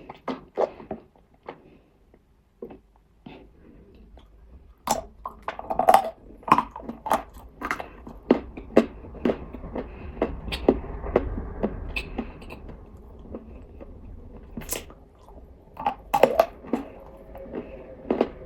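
A mouth biting and chewing dry chunks of nzu, the edible white clay (calabash chalk), in irregular sharp crunches. They come sparsely at first, then thick and fast from about five seconds in.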